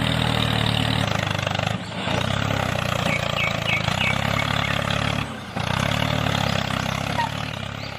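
A motor or engine running steadily with a fast, even pulse, dropping away briefly twice.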